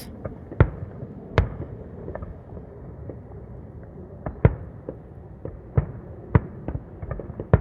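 Aerial fireworks bursting: about a dozen sharp bangs at irregular intervals, a few of them much louder than the rest, over a faint steady background.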